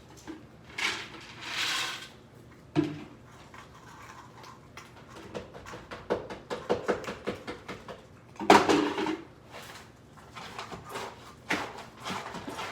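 Bowls and utensils clattering while cat food is dished out: a scrape, a run of small clinks and clicks, and a few knocks as bowls are set down, the loudest about eight and a half seconds in.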